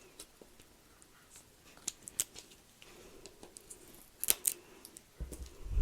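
Sharp snips and crackles of tape and plastic packaging being cut and pulled open, in scattered bursts, the loudest about four seconds in, with a dull handling thump near the end.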